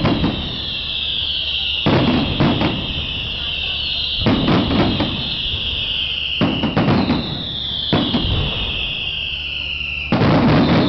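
Daytime aerial fireworks: a high whistle falling in pitch, then a cluster of sharp bangs, repeating about every two seconds, with the loudest cluster of bangs near the end.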